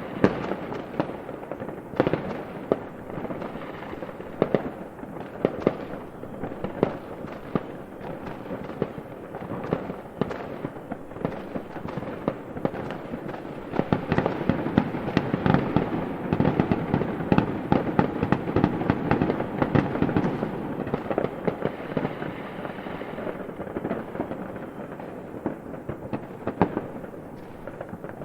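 A fireworks display with bangs and crackles going off in quick succession over a continuous rumble, busiest around the middle.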